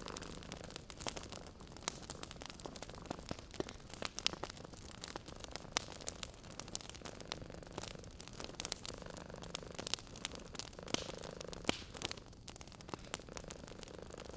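Wood fire crackling in a fireplace, with frequent sharp pops and snaps over a soft hiss. A cat purrs quietly at times, most clearly about two-thirds of the way in.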